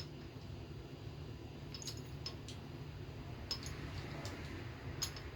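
Light metallic clinks of small engine parts, the rocker arms, pivot balls and nuts of a GM 4.3L V6 valvetrain, being handled and set in place: a few sharp ticks about two seconds in, again past three seconds and near the end, over a steady low hum.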